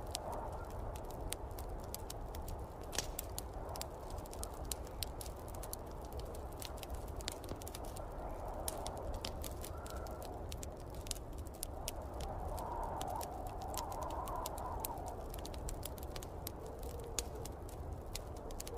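Wood fire crackling in a fireplace, with many sharp pops and snaps at an uneven rate, over a steady low rumble of snowstorm wind that swells and moans now and then, most strongly about two-thirds of the way through.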